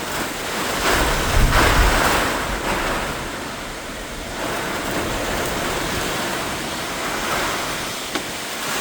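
Squall wind driving heavy rain, a dense steady rushing that rises and falls in gusts. The strongest gust comes about one and a half seconds in and buffets the microphone with a low rumble.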